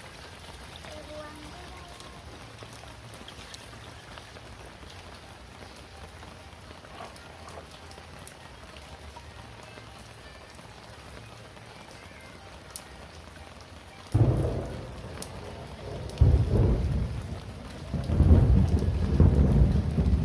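Steady rain falling, an even hiss with scattered drop ticks. About 14 seconds in, loud, irregular low rumbling starts suddenly and comes and goes until the end.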